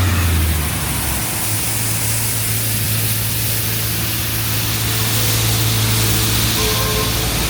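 Strong wind rushing over the microphone in a snowstorm, with a steady low hum of street traffic underneath.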